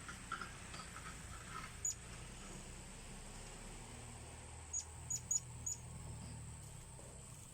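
Short, sharp, high-pitched chirps of a blue-crowned hanging parrot (serindit): one about two seconds in, then four in quick succession about five seconds in. A steady high insect drone runs beneath.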